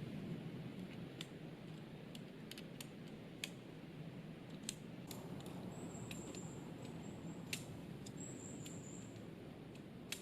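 Scattered light clicks and taps of tent-pitching gear being handled, such as pole sections and clips, over a low steady outdoor background. Two faint high trills sound in the middle.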